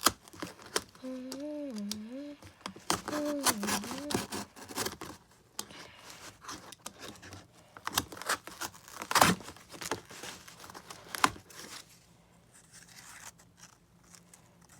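Cardboard being cut and handled: a string of scraping, tearing clicks, loudest about nine seconds in, with a few short hummed notes in the first four seconds.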